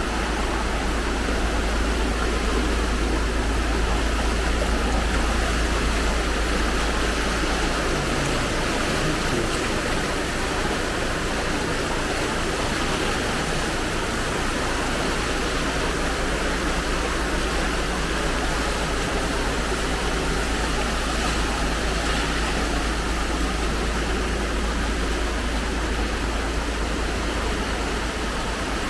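Floodwater rushing and flowing steadily, with a constant low rumble underneath.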